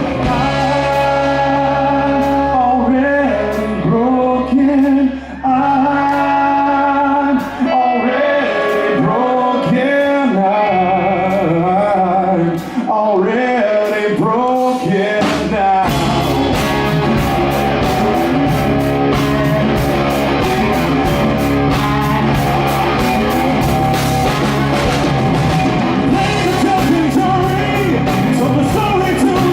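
Live rock band playing a song with sung vocals over guitar. About halfway through, the music turns fuller and denser, with a steady beat.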